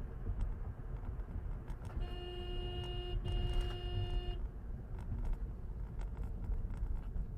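Car horn sounded twice in quick succession, two steady blasts of about a second each with a short break between, over the steady rumble of a car driving on the road.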